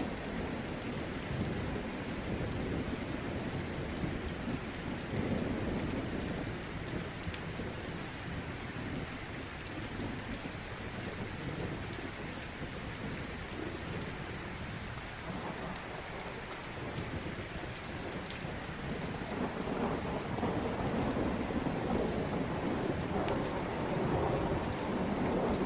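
Steady rain with low rolling thunder that swells and fades, growing louder in the last few seconds. Many small sharp crackles and ticks run through it, like a fireplace crackling.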